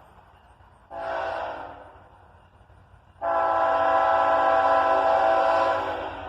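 Diesel locomotive's air horn sounding a chord of several steady tones: a short blast about a second in, then a long, louder blast that holds for about three seconds.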